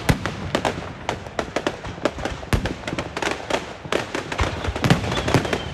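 Fireworks and firecrackers going off in a dense, irregular string of sharp bangs and cracks, several a second.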